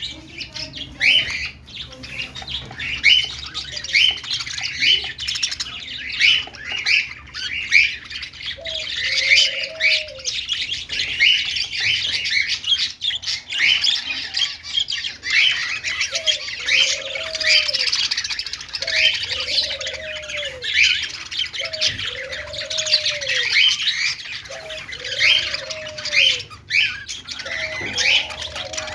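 A group of budgerigars chattering and warbling with many quick, overlapping chirps and squawks. From about a third of the way in, a lower call that rises and falls repeats about every two seconds underneath.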